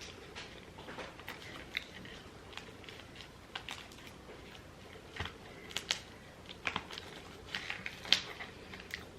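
Eating sounds from a meal of takeout pasta: irregular small clicks and taps of utensils and food containers, with chewing. The sharpest click comes about eight seconds in.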